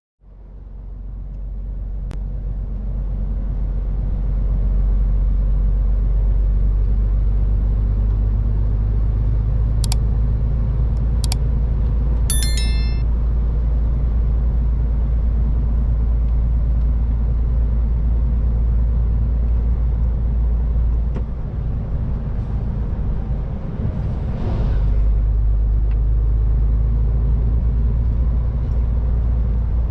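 MAN TGX 18.510 truck's 12.4-litre straight-six diesel and road noise while driving: a steady low rumble that fades in over the first few seconds. A few sharp clicks and a quick run of ticks come about 10 to 13 seconds in, and later the rumble dips briefly before a short hiss and the rumble picks up again.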